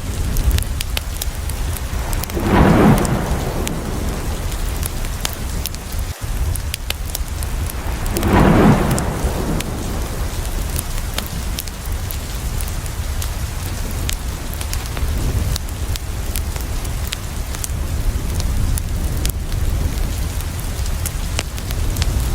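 Steady heavy rain falling on a window, with scattered sharp drop ticks. Two short, louder swells stand out, one about three seconds in and another about nine seconds in.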